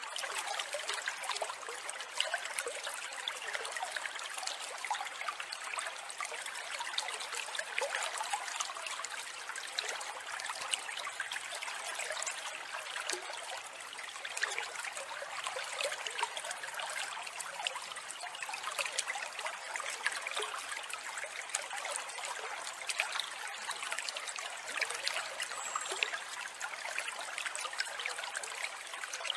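Running water trickling steadily, with short bird calls scattered faintly through it.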